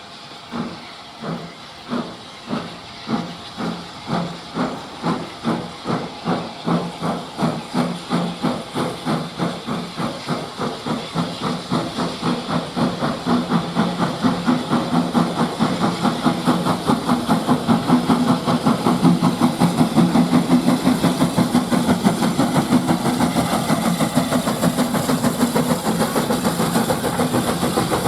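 Steam locomotive pulling away, its chuffing exhaust beats starting at about two a second and steadily quickening and getting louder until they blur together, with a hiss of steam.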